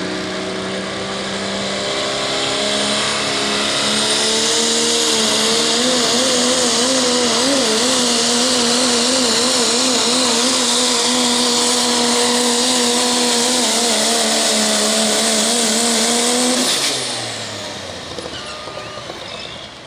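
Dodge diesel pickup pulling the sled at full throttle. The engine's pitch climbs over the first few seconds, then holds high and wavers, with a loud hiss of turbo and exhaust over it. About 17 seconds in, the throttle is chopped at the end of the pull and the engine winds down.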